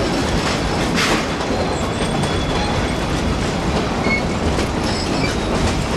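Narrow-gauge passenger train running on the rails, a steady rumble and clatter of wheels and cars, with a sharp knock about a second in and a few brief faint wheel squeals.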